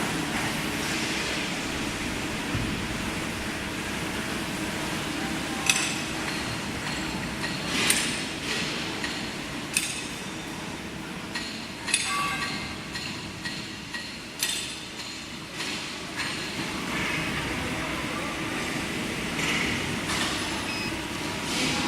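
Metal-cutting band saw running with a steady hum. Sharp metallic clinks and knocks come at irregular intervals, about half a dozen, each ringing briefly.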